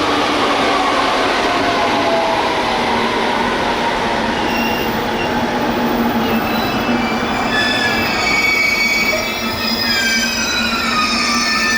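Electric local train moving through a station platform, with a loud steady running noise. A high tone falls slowly in pitch over the first few seconds, and from about halfway many high squealing tones slide up and down in pitch.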